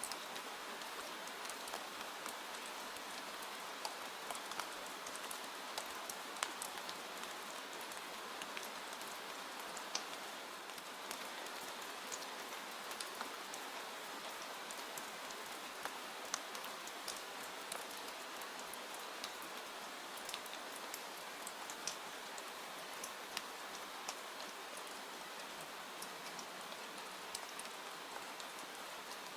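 Steady rain falling, with a constant hiss and many scattered individual drop ticks.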